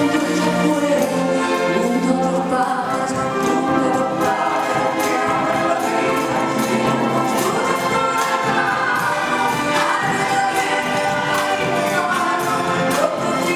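Live performance of an Argentine folk song by a mixed choir singing together with an orchestra.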